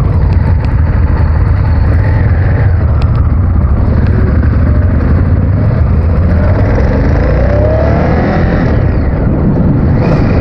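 Honda VTR1000F V-twin motorcycle under way, its engine running under a heavy rush of wind on the microphone; the engine note rises about two thirds of the way through.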